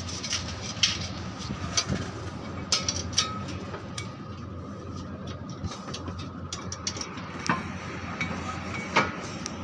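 Car brake disc being resurfaced: a steady machine hum with a faint high steady tone, and irregular metallic scrapes and clicks from the work on the spinning disc.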